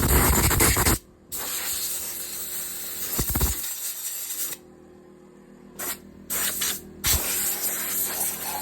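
Compressor air gun blowing compressed air over a freshly washed pit bike to drive the water out. The hiss stops and starts several times as the trigger is released and squeezed, with the longest pause a little past the middle.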